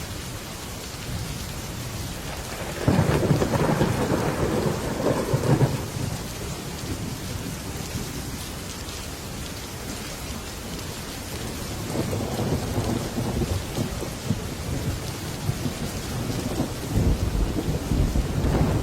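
Heavy rain falling steadily on a metal roof. A sudden thunderclap comes about three seconds in and rumbles for a few seconds. More thunder builds later, with a deep rumble near the end.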